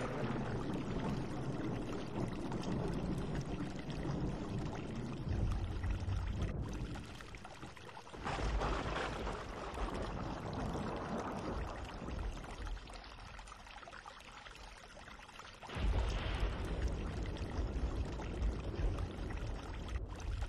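Chilli paste and chopped vegetables sizzling in hot oil in a frying pan while a spatula stirs and scrapes them around, a continuous hiss that swells louder about eight seconds in and again about sixteen seconds in.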